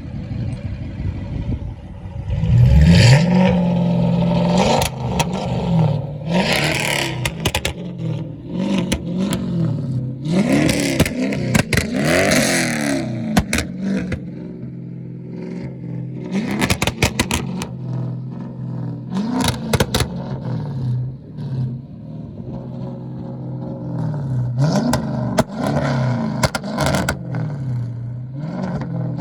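Dodge Charger SRT's V8 engine revving hard through its exhaust, the pitch climbing and falling again and again, with sharp crackles in between. The loudest surge comes about three seconds in.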